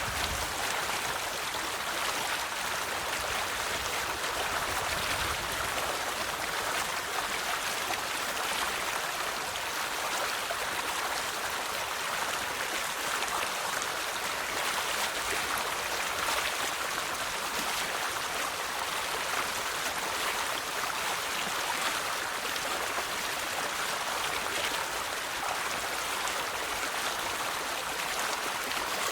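River water flowing over rocks: a steady rushing and babbling that keeps an even level throughout.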